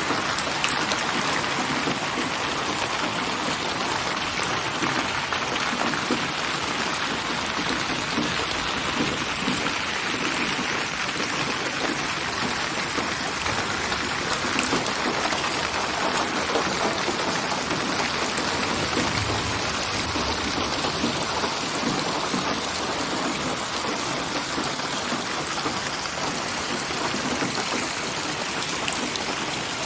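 Steady rain falling, a dense even hiss of many drops pattering on a surface.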